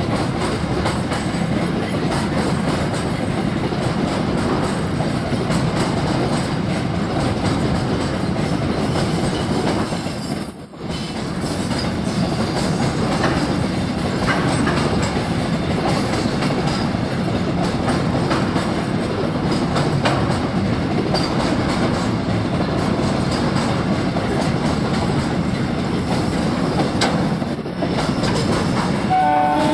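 Loaded container wagons of a long freight train rolling past, a steady rumble and clatter of steel wheels on the rails, with a thin high wheel squeal at times.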